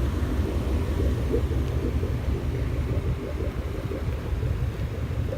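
Steady low rumble of car engines running, without a break.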